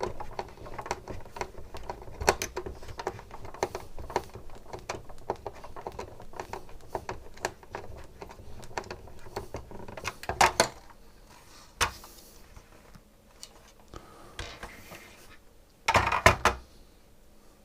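Quick small clicks and rattles of SodaStream parts being handled and fitted together by hand, with a louder clatter about ten seconds in and another near the end.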